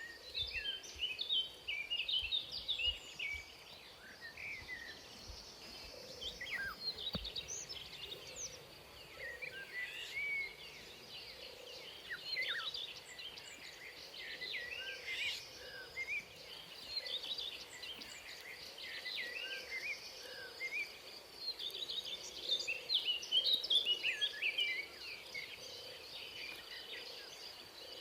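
Forest ambience: birds chirping in bursts of quick rising and falling notes over a steady high-pitched insect drone.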